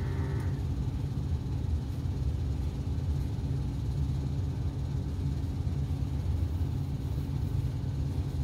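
Keurig K-Mini single-serve coffee maker running a low, steady rumble while it heats its water at the start of a brew cycle.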